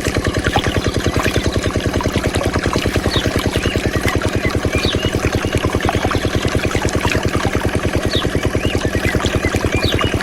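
Small diesel engine running a water pump at a steady speed, with an even chugging beat of about ten pulses a second. Faint short high chirps sound over it now and then.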